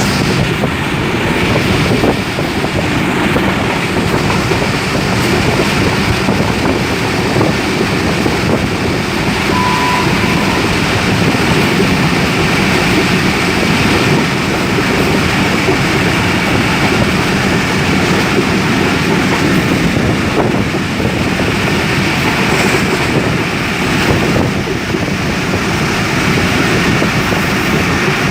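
Passenger train running along the track, heard from aboard: a steady, loud rumble of wheels and coach that comes in suddenly at the start and holds throughout.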